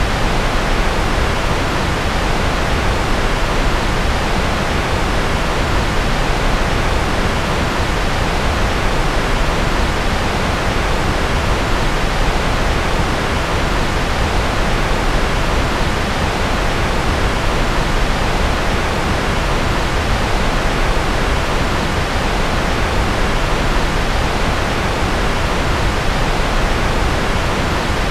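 Steady generated noise of the kind played as white noise for focus: an even, unchanging hiss with no events, fuller in the low end and fading toward the highs.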